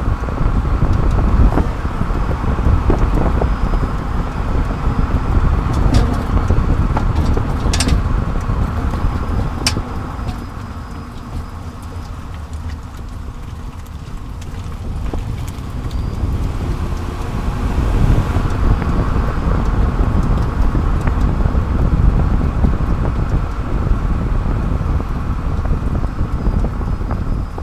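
Tyre and road noise with wind rush from underneath a moving 30-series Toyota Prius, picked up by a camera mounted under the rear bumper; a steady low rumble that eases for a few seconds midway, with a few sharp clicks early on.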